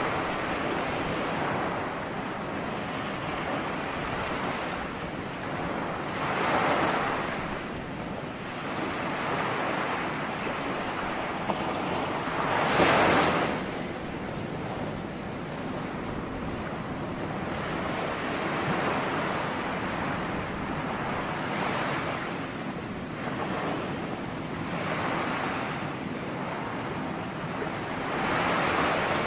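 Ocean waves breaking on a shore in a continuous wash, with a swell of surf every few seconds; the biggest wave breaks about halfway through.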